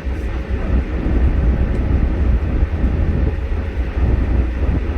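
A vehicle driving, heard as a steady low rumble of engine and road noise.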